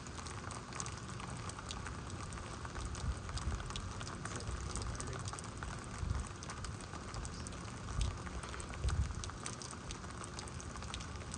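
Heavy rain falling steadily, with many individual drops ticking sharply close by. A few low thumps of wind buffet the microphone, the strongest about six, eight and nine seconds in.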